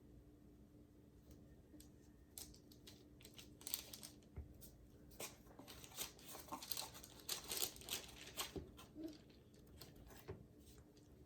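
Faint, irregular crinkling and clicking handling noise while a paint-covered canvas is tilted by hand, busiest through the middle and dying away near the end.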